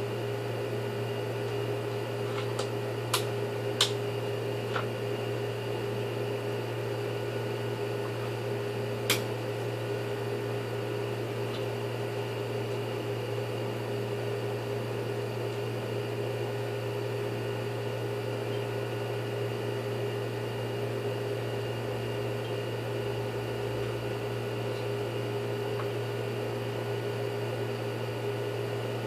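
Steady mechanical hum, with a few sharp clicks in the first ten seconds.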